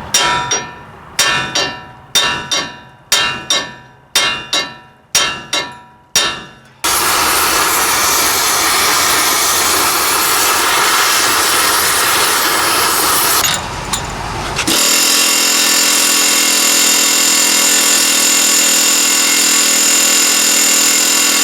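About a dozen hammer blows on a stuck steel kingpin in a truck's front axle, each ringing briefly, often two in quick succession. About seven seconds in, a loud steady tool noise takes over. It drops briefly a couple of seconds later, then carries on with a held ringing tone in it.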